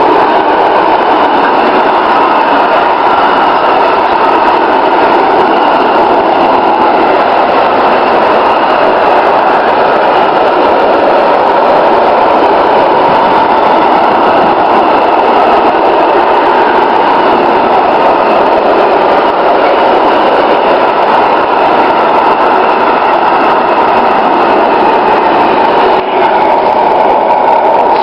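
Freight train of container and swap-body wagons passing close by, a loud, steady rumble and rattle of wheels on rail.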